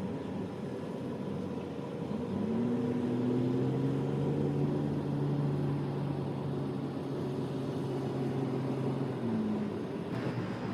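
A motor engine running steadily with a low hum: its pitch rises about two seconds in, holds, then falls away near the end, over a steady background hiss.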